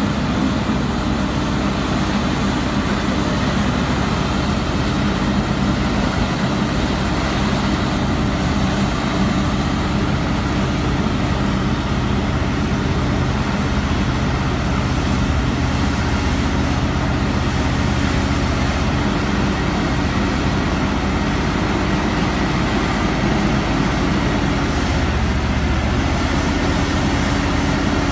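Heavy diesel truck engine running steadily, with a slight change in its low note about halfway through and again near the end.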